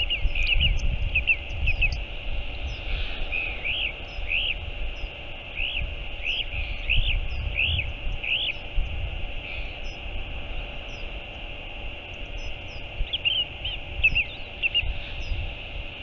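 Bird calls: a run of short, high, arching notes about a second apart through the first half, then a few more near the end, over a low, uneven rumble.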